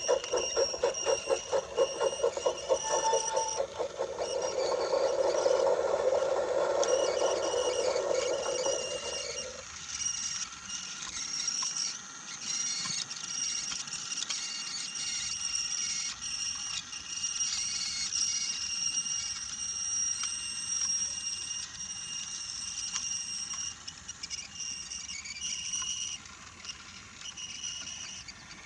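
Battery-powered Brio toy train running on wooden track: a steady high-pitched motor whine throughout, with a rhythmic clatter of wheels over the track joints, about three beats a second, and a rumble over the wooden rails that stops about nine and a half seconds in.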